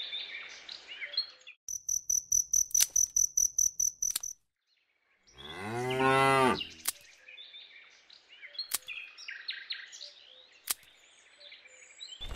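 A cow moos once, a long call that rises and falls, about halfway through. Before it comes about two and a half seconds of fast, even, high-pitched chirping, and faint bird chirps and a few light clicks follow.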